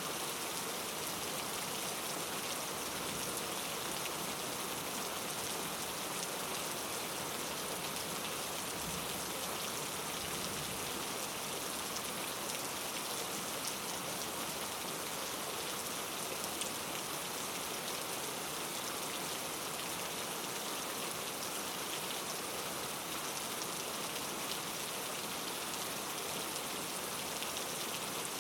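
Steady rain falling, an even hiss with fine drop ticks and no thunder.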